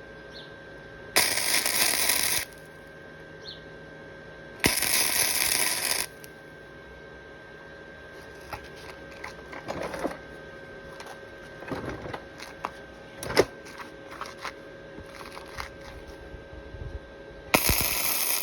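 Electric welding arc on a steel motorcycle frame, crackling in three short bursts of a second or so each (about a second in, around five seconds, and near the end), with clinks and knocks of metal and tools being handled between the welds.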